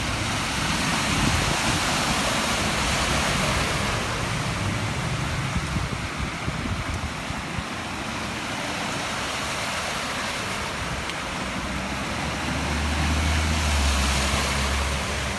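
Steady rushing noise of wind and water from typhoon flooding, swelling a little near the start and near the end. A low steady hum joins it near the end.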